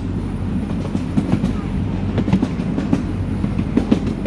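Small open-car park train rolling along its track, heard from on board: a steady low rumble with irregular clacks and knocks from the cars.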